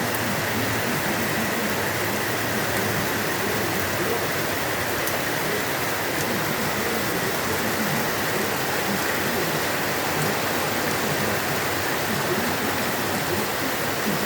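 Heavy rain falling, a dense steady hiss that holds even throughout.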